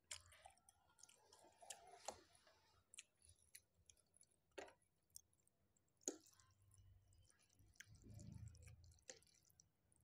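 Faint chewing and slurping of spicy instant noodles, with a handful of sharp clicks of a metal fork against the plate.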